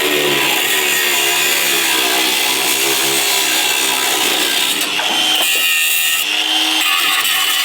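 Handheld power tool running continuously against the car's sheet-metal bodywork, cutting away what is left of the old battery tray. Its sound changes character about five seconds in.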